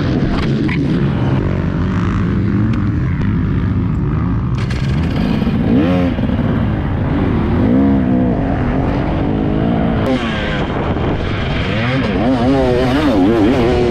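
Dirt bike engine revving under riding, its pitch rising and falling again and again with the throttle and gear changes.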